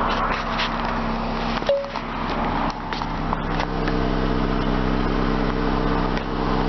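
2008 Honda Accord's 2.4-litre four-cylinder engine idling steadily, with scattered light clicks over it.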